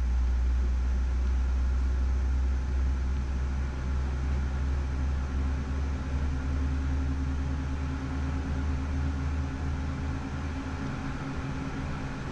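Boeing 787-9 jet engines starting up: a steady low rumble with a mechanical hum, and steadier tones join in about halfway through as the engines come up.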